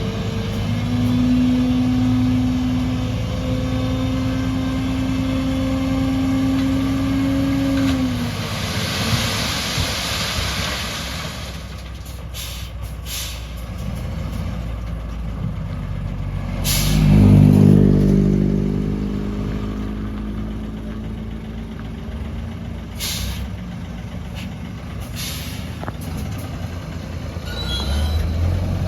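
Diesel engines of dump trucks and an excavator at work, running steadily at first. A hiss like an air-brake release comes about nine seconds in, with a few shorter hisses later. An engine revs up loudly in the middle, and another picks up near the end.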